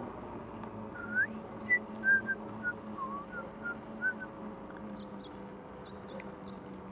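Whistling: a quick run of about ten short notes, some swooping up or down, from about a second in to about four seconds in, over a steady low hum.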